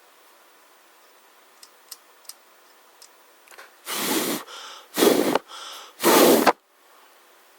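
A few faint clicks, then three loud breathy puffs of air about a second apart.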